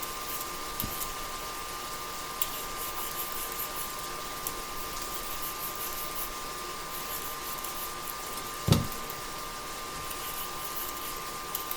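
Quiet kitchen work sounds: a steady hiss with a thin steady tone under it, a few faint scrapes and ticks, and one dull thump about nine seconds in.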